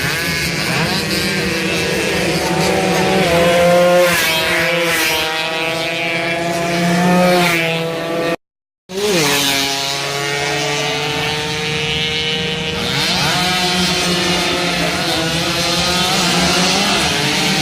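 Two-stroke racing motorcycles at high revs, their engine pitch climbing and dropping through gear changes and throttle as several bikes run past. The sound cuts out briefly about eight seconds in.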